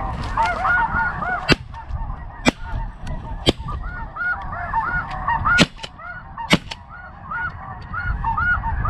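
Many snow geese calling, high yelping honks overlapping without a break. Through them come five sharp shotgun shots: three about a second apart starting about one and a half seconds in, then two more a second apart a couple of seconds later. Wind rumbles on the microphone underneath.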